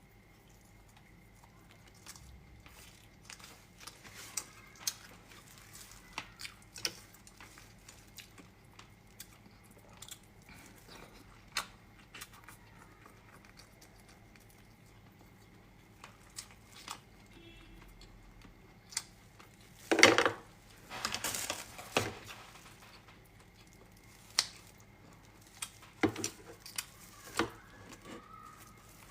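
Close-miked eating of blood sausage and vermicelli: scattered clicks of utensils against a bowl with quiet chewing, and a louder clatter of dishes about two-thirds of the way through.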